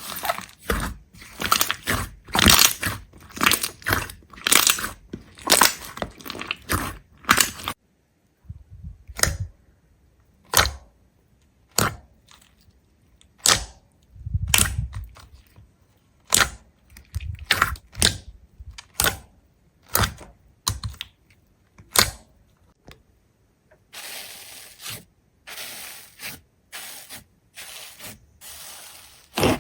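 A run of sharp crunches and cracks, dense for the first several seconds, then single cracks about a second apart, growing denser again near the end.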